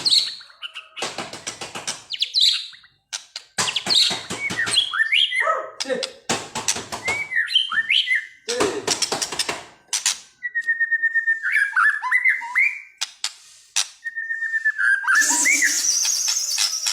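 White-rumped shama singing loudly and continuously in an agitated mood: a varied song of harsh rasping notes and quick sliding whistles, with long steady whistles in the second half.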